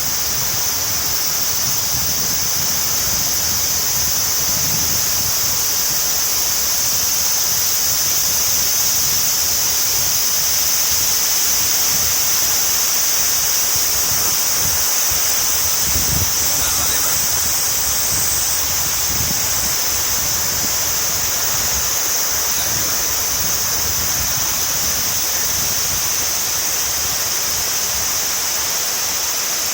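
Swollen, fast-flowing river in flood after typhoon rain: a loud, steady rush of churning water.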